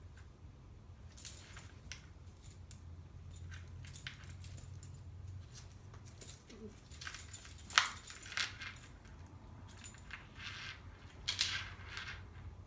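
Cats tussling: scattered light metallic clinks and scratchy rustles, with one sharper click near the middle, over a steady low hum.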